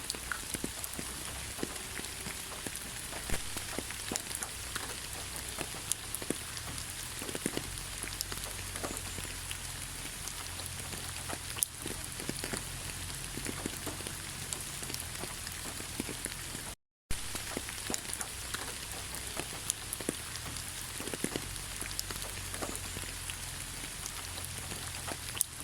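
Steady rain falling, with many scattered drops ticking on a surface. The sound cuts out completely for a moment about two-thirds of the way in.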